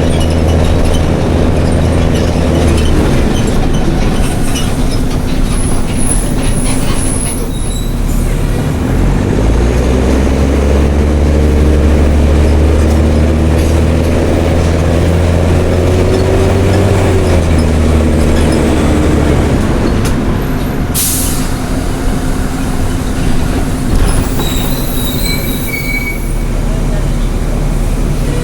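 Mercedes-Benz OM366LA turbocharged six-cylinder diesel of a city bus running loud through an open, straight exhaust under way, its pitch climbing and dropping several times. A sharp click about two-thirds of the way through.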